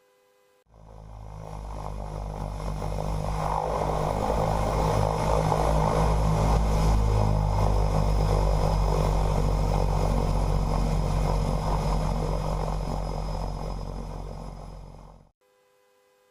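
DHC-6 Twin Otter's two PT6A turboprop engines and propellers running with a steady low drone. It swells up over a few seconds, holds, then fades and cuts off abruptly near the end.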